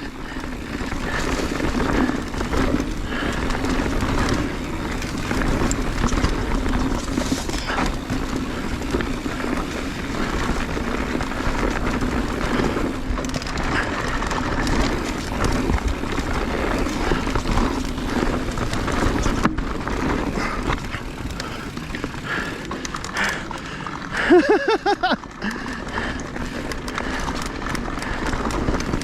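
Mountain bike descending a rocky downhill trail at speed: steady tyre and trail rumble with rattles and knocks, and wind on the microphone. A brief shout or whoop about 25 seconds in.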